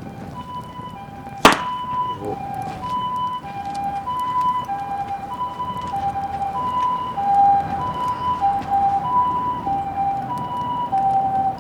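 Emergency vehicle's two-tone hi-lo siren, alternating between a higher and a lower pitch about every two-thirds of a second. A single sharp crack sounds about one and a half seconds in, over faint crackling from a wood bonfire.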